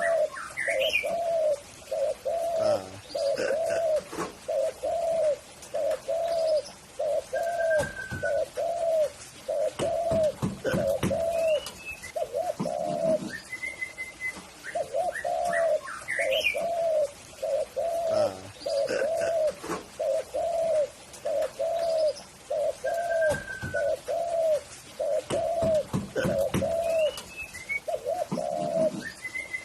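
Spotted dove (tekukur) cooing: a long series of short, evenly paced coos in phrases with brief gaps. Short higher chirps from other birds come in between.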